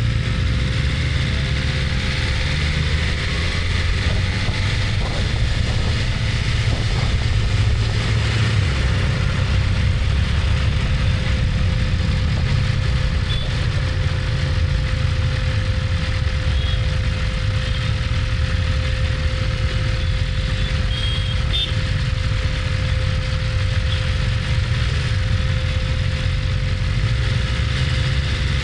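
BMW S1000RR's inline-four engine running steadily at low revs, a continuous low rumble with a constant thin hum above it, and some faint road traffic around it.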